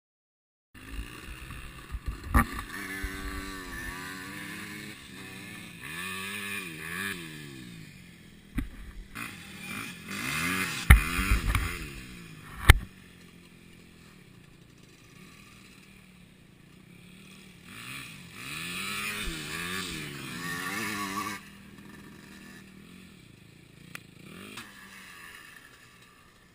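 Enduro motorcycle engines revving up and down again and again, with quieter stretches between. A few sharp knocks, the loudest two close together near the middle.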